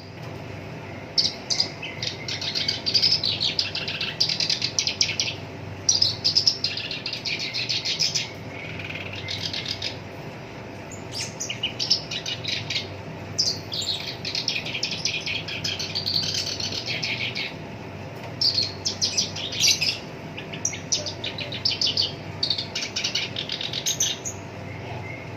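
Black-browed reed warbler singing: long runs of rapid, rough chattering notes in phrases of a second or two, with short pauses between, over a faint steady hum.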